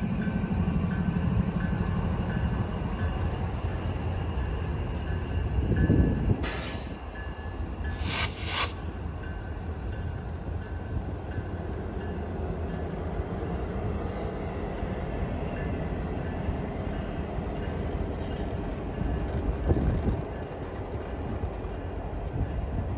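Freight train rolling past, the diesel locomotive's engine heard in the first few seconds, then the steady rumble of freight cars on the rails. A few sharp knocks or clanks come about six and eight seconds in.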